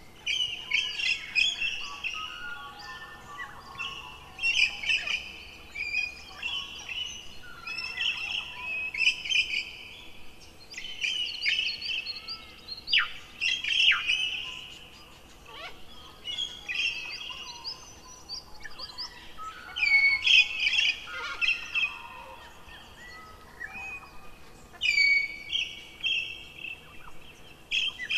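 Birdsong: a run of short, high chirping phrases with quick pitch slides, repeated every second or two with brief pauses between them.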